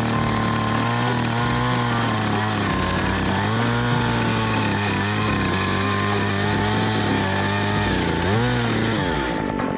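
STIHL MS 194 TC top-handle two-stroke chainsaw running at high revs. Its engine speed sags and picks up again a couple of times, most sharply near the end, and the engine sound stops just before the end.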